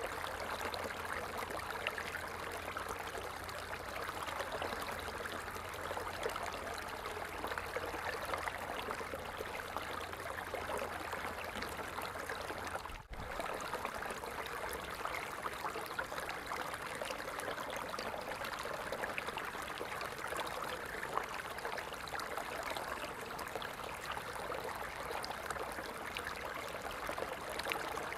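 Water falling and splashing in a steady, even rush. About halfway through it drops out for an instant.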